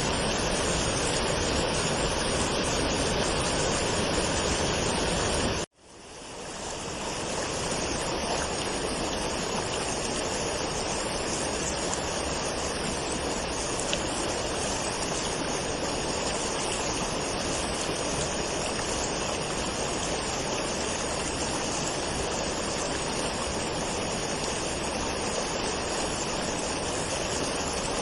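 Waterfall rushing steadily. About six seconds in, it cuts out suddenly and fades back in over a couple of seconds, after which the rush sounds a little different.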